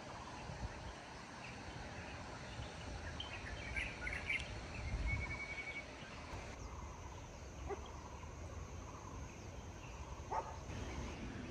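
Outdoor ambience with scattered bird chirps and a short whistled note, busiest in the middle, over a low steady background rumble.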